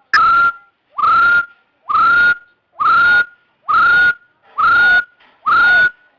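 Hill partridge calling: a loud, clear whistle that slides up and holds, repeated evenly about once a second, seven times.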